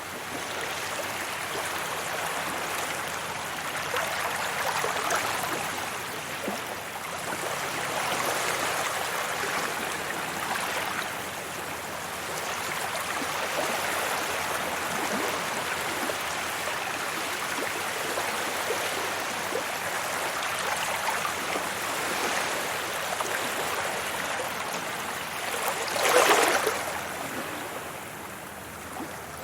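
Sea waves washing onto a beach: a continuous rush of surf that swells and falls every few seconds, with one sharper, louder wave break near the end.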